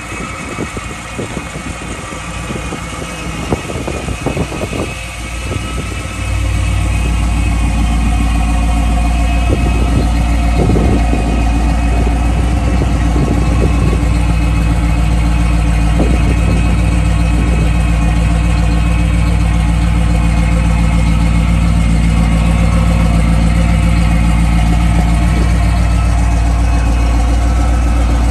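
A 1969 Chevrolet Camaro SS's V8 idling, a low, even exhaust note. It becomes markedly louder and steadier about six seconds in.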